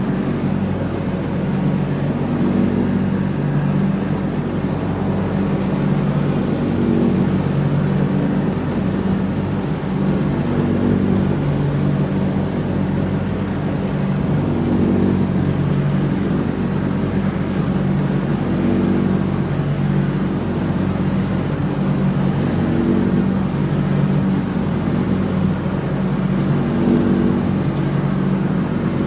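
John Deere X304 lawn tractor running steadily while mowing, its engine note swelling and easing slightly every few seconds.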